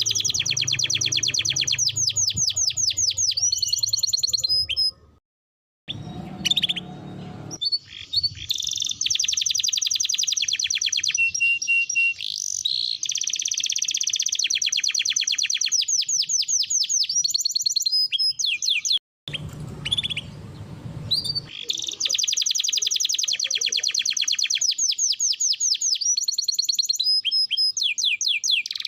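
Domestic canary singing a long song of fast repeated trills and rolls, broken by two short gaps about five and nineteen seconds in.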